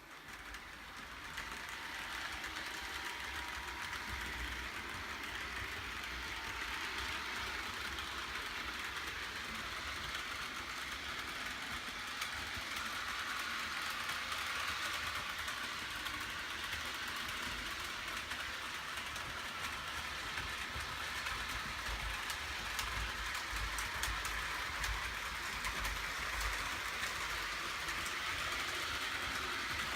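HO scale model train running along its track: a steady whirring rattle of the small motor and wheels on the rails, building up over the first couple of seconds.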